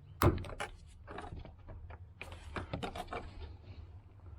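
Hands working a snap-in release tab under a car's rear seat, pressing it in and tugging to pull the part up. A sharp knock comes just after the start, then a run of small clicks and rattles about two to three seconds in.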